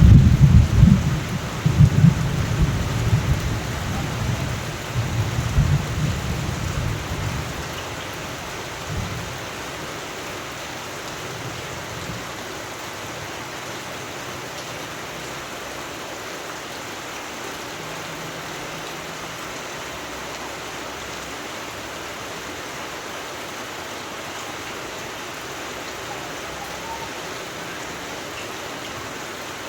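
Steady rain with a long roll of thunder. The low rumble is loudest in the first few seconds and fades out about eight seconds in, leaving the even hiss of rain alone.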